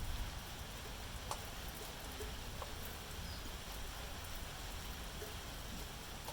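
Steady rain falling, an even hiss over a low rumble, with a couple of sharp drip ticks about a second in and again a little later.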